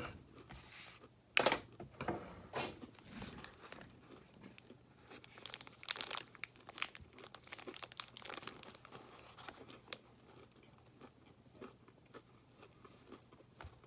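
A person biting into a chewy granola bar with peanuts and oats, then chewing it. The bite comes about a second and a half in, followed by irregular crunchy chewing that thins out after about ten seconds.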